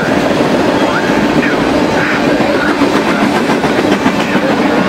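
Freight train of tank cars rolling past on the nearest track: a loud, steady rumble and clatter of steel wheels on the rails.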